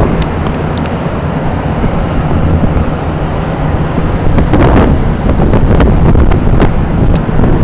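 Wind buffeting the microphone outdoors, a loud steady rumble with a few brief clicks in the second half.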